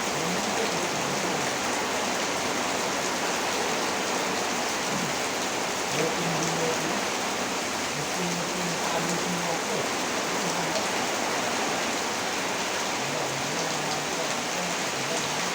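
Heavy rain pouring steadily, an even dense hiss without let-up.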